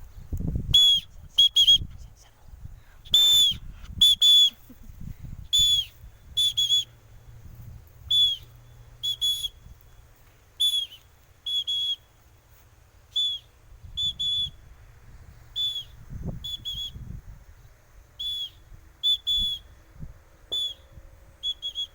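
Short, high whistled notes repeated about once a second, some single and some in quick pairs, each starting with a slight dip in pitch. Low knocks and rumbling sit under the first few seconds.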